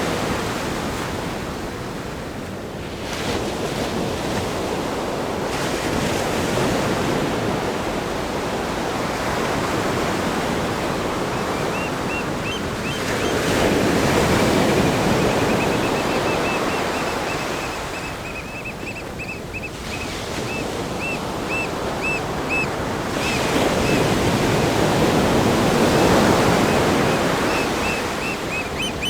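Ocean surf breaking on a rock groin and sandy beach, a steady wash that swells with two larger breakers, the first about halfway through and the second near the end. A faint run of short, evenly repeated high chirps sounds through the second half.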